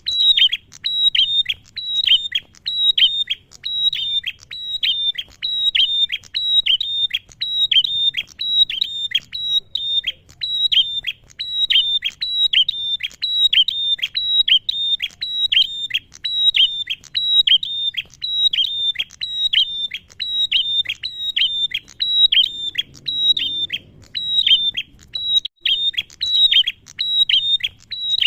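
Male prenjak (prinia) calling: an unbroken run of sharp, high chirps, about two a second, each dropping quickly in pitch.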